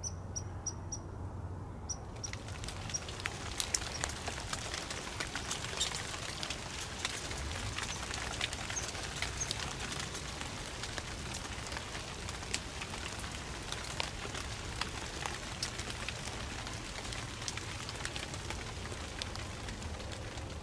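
Light rain pattering on dry leaf litter: a steady hiss full of small ticks that cuts off abruptly at the end. A few short high chirps sound in the first second.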